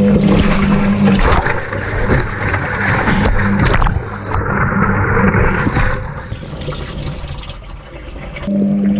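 Washing machine washing: water sloshing and splashing in the turning drum, under a steady low hum that stops about a second in and comes back near the end.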